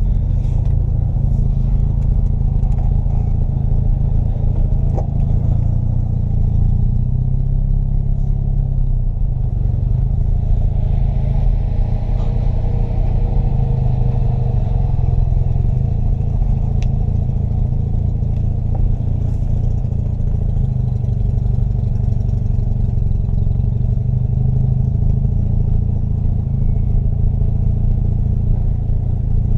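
1982 Mazda RX-7's 12A two-rotor rotary engine running at a fairly steady pace, its note shifting only slightly up and down.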